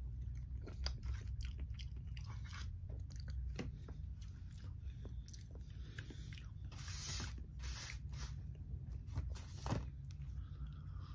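Close-miked chewing and crunching of fried chicken and vegetables, with many short sharp clicks and crackles, over a steady low hum.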